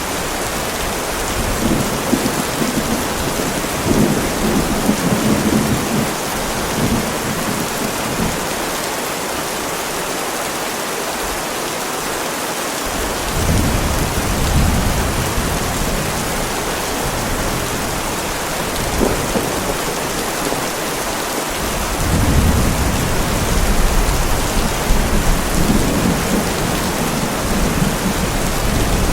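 Heavy rain falling steadily, with thunder rumbling low several times, each roll lasting a few seconds.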